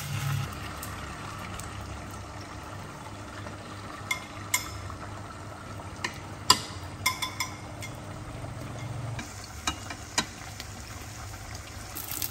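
Beaten egg frying softly in a nonstick pan on an induction hob. Wooden chopsticks stir it, giving a scatter of sharp clicks and taps against the pan from about four seconds in, the loudest one a little past halfway.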